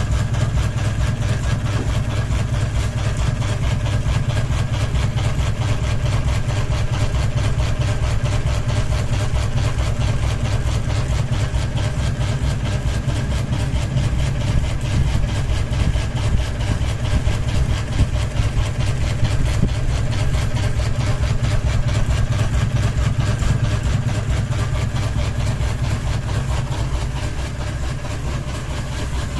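Ceiling fan running with a single blade, wobbling off-balance: a steady low hum with a fast, even pulsing beat. It eases slightly near the end.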